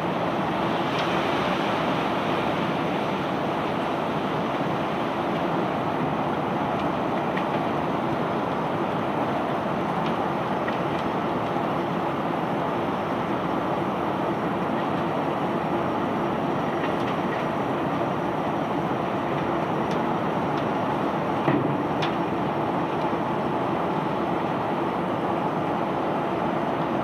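Steady mechanical running noise of barge unloading machinery, even and unbroken, with a single short knock about three-quarters of the way through.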